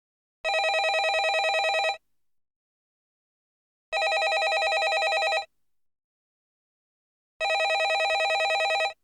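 Landline telephone ringing: three rings of about a second and a half each, repeating every three and a half seconds with silence between, each ring a fast trill.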